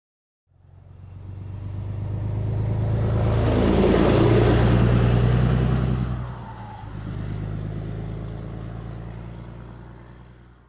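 Heavy truck engine driving past. It swells to a peak about four seconds in with a high whine rising in pitch, dips briefly past the middle, then fades away.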